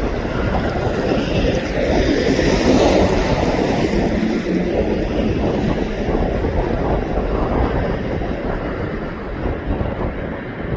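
Aircraft engine noise mixed with wind buffeting the microphone, swelling to its loudest about two to three seconds in and then easing to a steady rumble.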